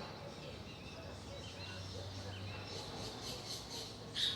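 Birds calling: soft short chirps in the middle, a quick run of about six high chirps about three seconds in, and a louder call right at the end.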